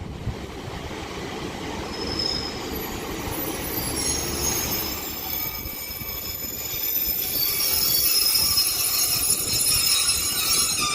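Northern Class 150 and Class 156 diesel multiple units arriving at the platform, rumbling along with high squealing from the wheels. It grows louder over the first eight seconds or so.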